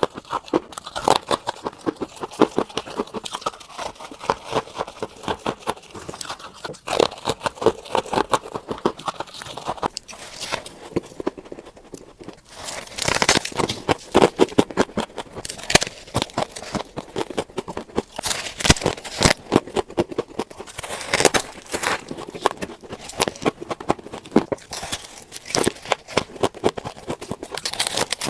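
Close-up crunching of refrigerator frost ice being bitten and chewed: rapid crisp crunches throughout, with a denser, noisier stretch about twelve seconds in.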